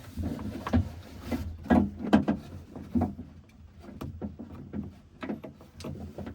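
Irregular clicks, knocks and rattles of a hand groping inside a pickup truck's door cavity, knocking against the sheet metal and door panel while feeling for the door handle's mounting nut.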